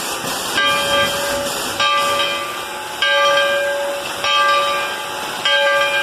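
Steam locomotive bell ringing, one strike about every second and a quarter, each ringing on and fading, over a steady hiss of steam.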